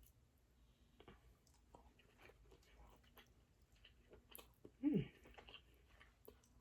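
Faint close-up chewing and soft wet mouth clicks of someone eating crab claw meat. About five seconds in there is a brief hummed "mm" that falls in pitch.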